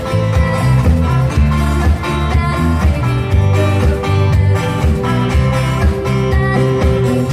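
Loud live band music, an instrumental passage led by guitar over a bass line that changes notes in a steady rhythm, heard from in front of the stage.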